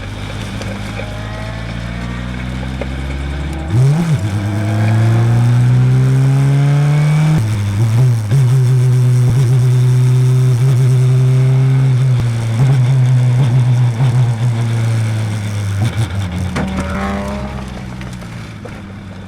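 Race car engine at full throttle, its pitch climbing and then dropping abruptly at upshifts about four and seven and a half seconds in. It holds a high steady note, then falls away and quietens near the end as the car slows.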